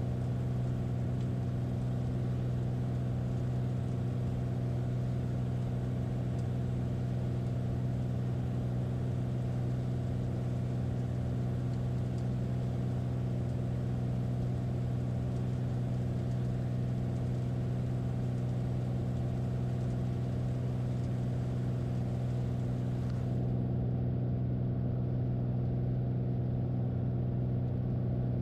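Light piston airplane's engine and propeller droning steadily in flight, heard from inside the cockpit. It holds one low, even pitch, and the hiss above it thins out about five seconds before the end.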